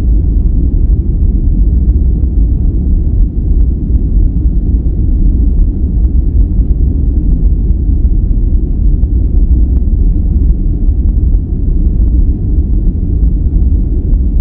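Continuous sleep-noise track of the kind sold as white noise, here a deep, even hiss with most of its weight in the bass and little treble, steady throughout with no tones or breaks.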